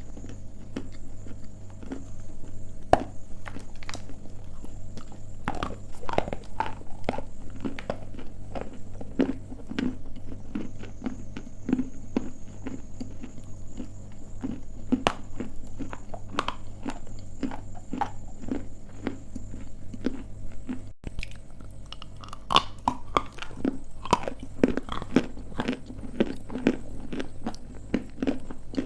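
Crunching and chewing of dry edible clay chunks, close to the microphone: many sharp, brittle bites and steady chewing from two people eating.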